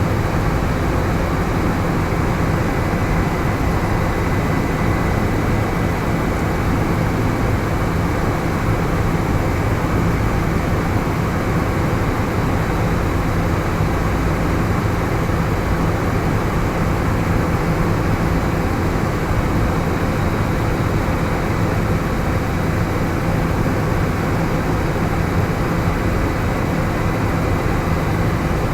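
Helicopter in flight, its engine and rotors running steadily with a constant low drone and a faint high whine.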